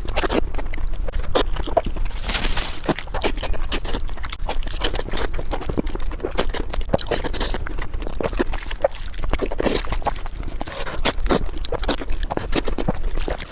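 Close-miked mukbang eating sounds: chewing and wet lip-smacking on spicy braised beef ribs, a dense, irregular run of smacks and clicks over a steady low hum.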